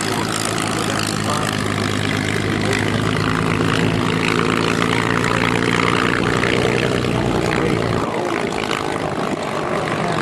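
Piston engines of a propeller aircraft droning at a steady pitch over a wash of noise; the deepest tones drop away about eight seconds in.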